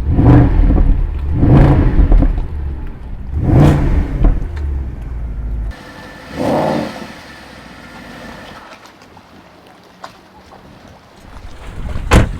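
Mercedes-AMG SLS 63's 6.2-litre V8 revved in short blips: three loud rises in the first four seconds and a weaker one a little later, then settling to a quieter run.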